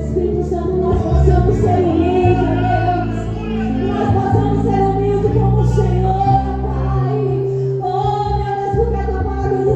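Christian worship song: female voices singing over sustained low instrumental backing.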